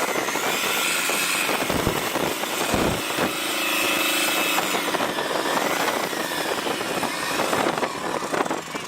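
Tractor engine running as the machine is driven around, its pitch rising and falling with the throttle.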